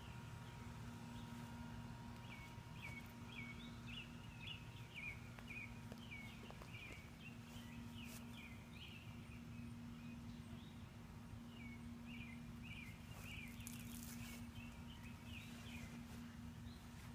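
A small bird chirping in quick runs of short notes, stopping for a few seconds midway and then starting again, over a faint steady low hum.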